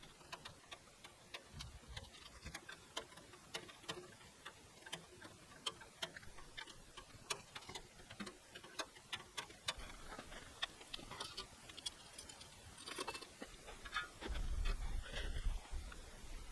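Campfire crackling: sharp, irregular pops and snaps of burning wood, a few each second. A low rumble comes in near the end.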